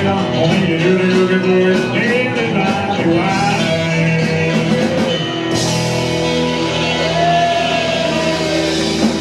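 Live rock and roll band playing, with guitar over bass and drums; sharp drum hits early on give way to a steady cymbal wash from about five and a half seconds in.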